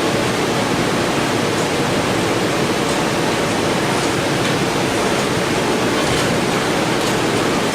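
Forced-air shop heater running with a steady, even roar, with a few faint clicks over it.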